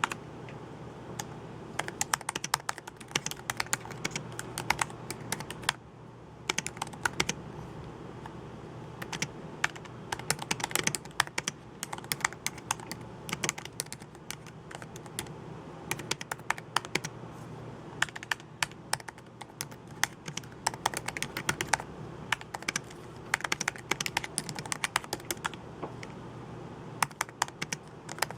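Typing on a computer keyboard: quick runs of key clicks in bursts, broken by short pauses, over a steady low hum.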